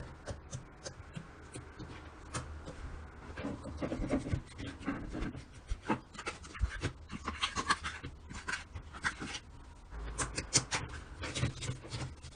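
Slime being squished and stretched by hand, giving an irregular run of small clicks and pops.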